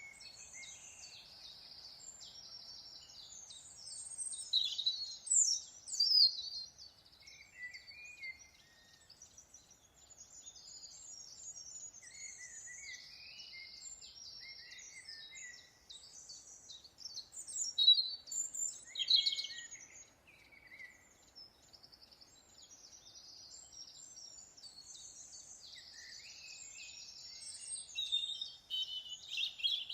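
Birds chirping and singing in high-pitched, rapid trills and short calls, with louder bursts of calls about five seconds in, around eighteen seconds, and near the end.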